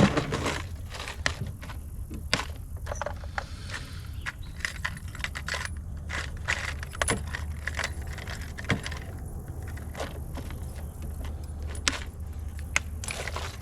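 Fishing tackle being handled: small metallic clinks and clicks at irregular intervals, as lures and hooks are sorted to change to a spinnerbait.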